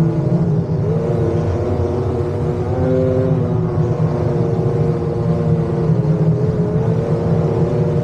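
Motosurf (motorised surfboard) engine running steadily on the water, its pitch wavering slightly up and down.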